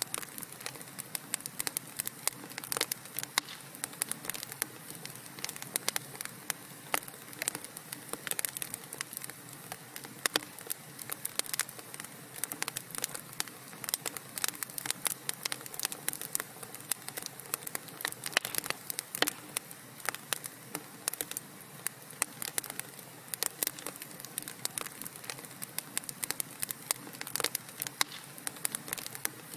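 Wood fire burning in a fireplace, crackling steadily with dense, irregular pops and snaps over a soft hiss.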